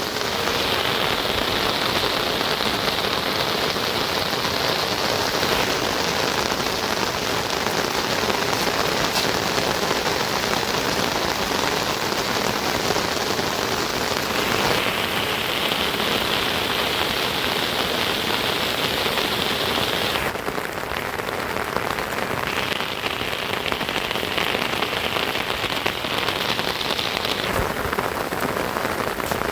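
Steady rain falling, a dense continuous patter. Its tone shifts abruptly a few times, about halfway through and again near the end.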